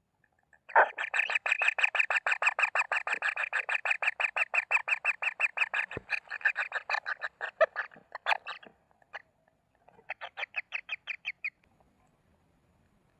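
Kingfisher giving a fast, harsh rattling call of about seven notes a second for roughly seven seconds, then a shorter rattle about ten seconds in.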